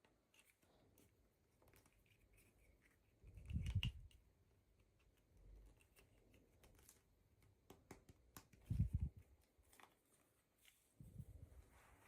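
Faint handling of toy packaging: scattered light clicks and rustles, with two soft thumps about four seconds in and about nine seconds in.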